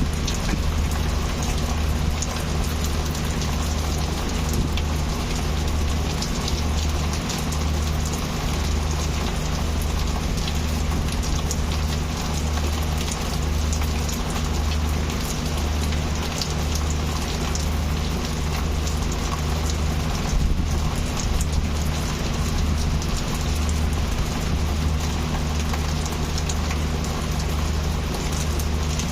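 Heavy rain falling steadily, a dense hiss of drops hitting a surface, with a low rumble underneath that throbs about once a second.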